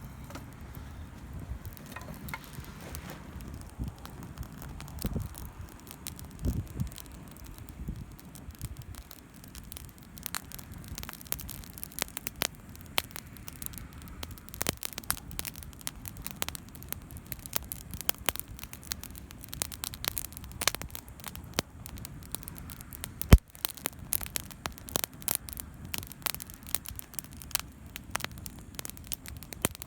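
Wood campfire crackling, with frequent sharp pops and snaps over a low steady rumble. The pops come more often after about ten seconds, and one loud pop stands out about two-thirds of the way through.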